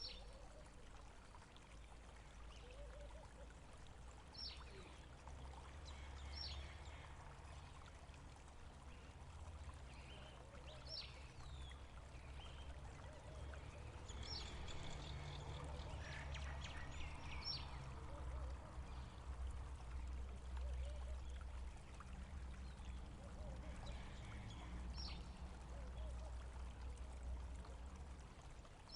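Faint running water with a low rumble underneath, and a scattering of short, high bird chirps that sweep downward.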